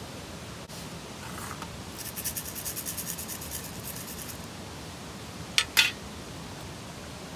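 A quick run of rasping scrape strokes lasting about two seconds, followed by two sharp clicks close together.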